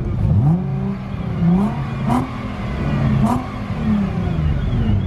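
Car engine revved several times while standing still, its pitch rising and falling with each blip of the throttle.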